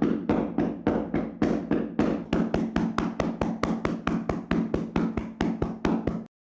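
Hands slapping a person's body in a vigorous tapping massage, about three slaps a second, quickening to about five a second after two seconds, then cutting off suddenly near the end.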